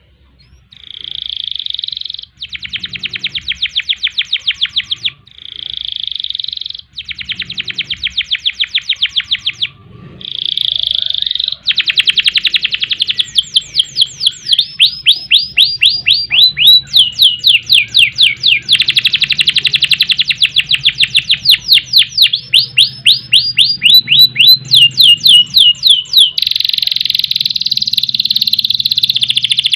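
Domestic canary singing a long, loud song: short bursts of dense rolled trills at first, then a steady run of rapid sweeping notes, about ten a second, with no break from about twelve seconds in.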